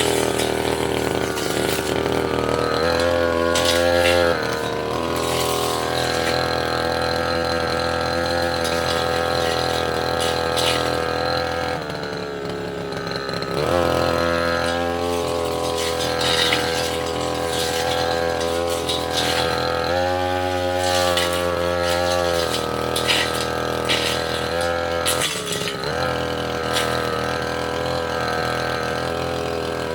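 Tasco 33 Pro brush cutter engine running under throttle as it cuts through saplings and small roots. The engine note rises and falls repeatedly, dropping back about twelve seconds in and again about twenty seconds in before revving up again.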